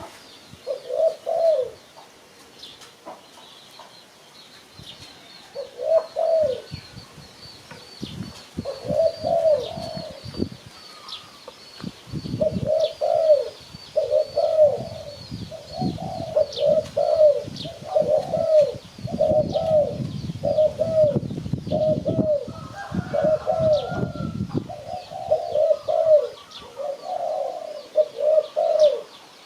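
Spotted doves cooing: a few coo phrases at first, then repeated coos almost without pause through the second half. Faint high chirping from small birds goes on throughout.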